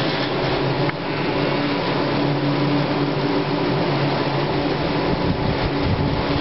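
Aerial cable car's steel ropes running over the pylon sheaves: a steady mechanical hum with several held tones under a wash of wind noise, and a light click about a second in.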